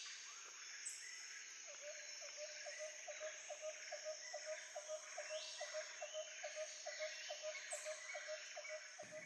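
Rainforest nature-ambience sound effect: a steady background hiss with a short chirping call repeating about three times a second, starting about two seconds in and stopping near the end.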